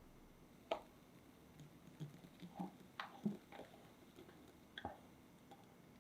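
Faint kitchen handling sounds: a few scattered soft clicks and light taps, about half a dozen, with the sharpest near the start, around the middle and just before the end.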